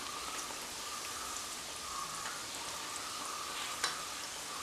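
Pieces of flour cake dough sizzling steadily as they deep-fry in hot oil in a pan, with one light click about four seconds in.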